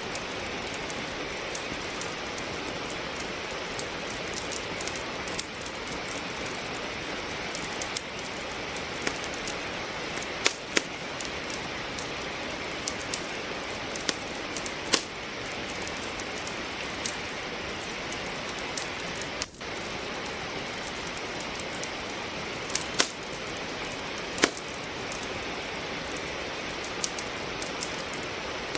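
Steady rain hiss with a wood fire crackling, irregular sharp pops and snaps of burning logs over it. The sound drops out briefly about two-thirds of the way through.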